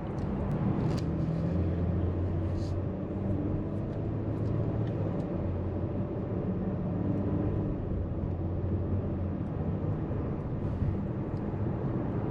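Car driving, heard from inside the cabin: a steady low engine hum over road noise.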